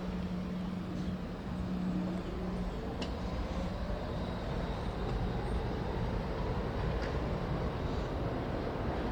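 Staten Island Railway subway train pulling away, its motor whine rising steadily in pitch as it speeds up, over a growing rumble of wheels on rail; a steady hum fades out early on.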